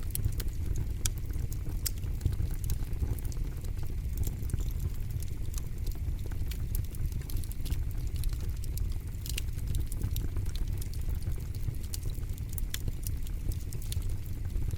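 Campfire burning: a steady low rumble of the flames with frequent irregular crackles and pops from the burning wood.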